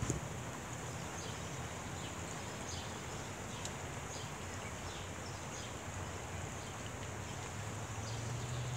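Steady rain falling, an even hiss, with faint short high peeps scattered through, from Canada goose goslings. A brief knock from the tablet being handled comes right at the start.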